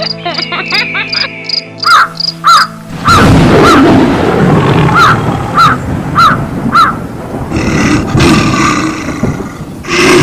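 Background music of held notes and a regular bright plinking gives way, about three seconds in, to a loud rushing roar. Over the roar a harsh cawing call repeats about twice a second for several seconds.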